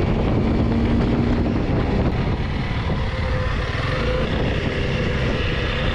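Honda CRF300 Rally's single-cylinder engine running steadily while riding, mixed with a dense rush of wind and road noise. A faint steady tone comes in about half a second in and fades out near the middle.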